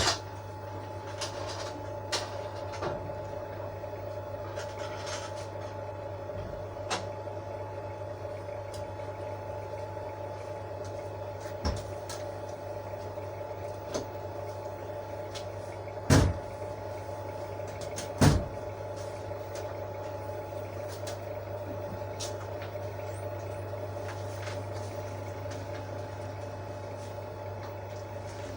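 A steady hum with scattered short clicks and knocks, the two loudest knocks coming about two seconds apart past the middle.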